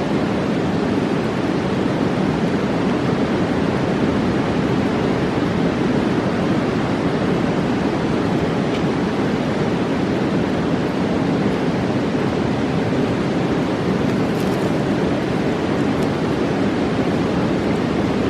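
Steady rush of a fast mountain river, a loud, even roar with most of its weight low down, with a few faint ticks on top.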